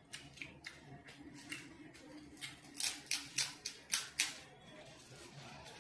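Close-miked chewing with wet mouth clicks and smacks as a veg momo with chilli sauce is eaten. A quick run of about seven sharp clicks comes in the middle.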